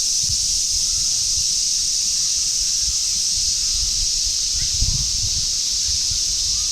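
A steady, loud chorus of cicadas, an unbroken high-pitched buzz. Faint low thumps come and go underneath, strongest about five seconds in.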